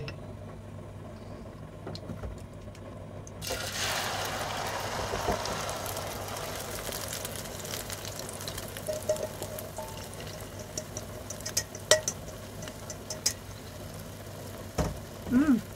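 Eggplant and egg batter poured into hot oil in a frying pan, starting to sizzle suddenly about three seconds in and frying steadily after that. A few light taps of utensils come near the end.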